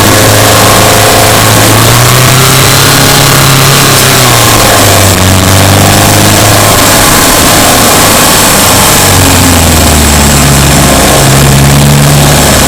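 Subaru Impreza Sport's flat-four engine running under varying throttle while driving, its pitch rising and falling, with road and wind noise underneath.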